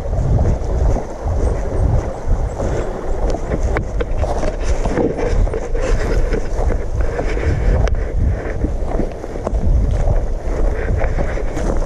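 Wind buffeting the microphone: a loud, uneven low rumble that swells and eases, with scattered light clicks over it.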